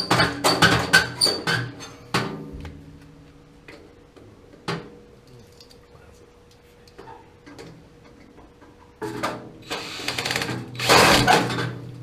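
Metal clinks and knocks from hand tools, then about nine seconds in a power drill runs in two bursts. It is driving a self-tapping screw into a snapped-off bolt, and the screw just spins and strips instead of biting.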